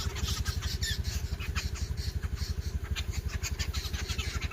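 An engine idling with a steady, rapid low throb, about a dozen even beats a second, with faint high chirps over it.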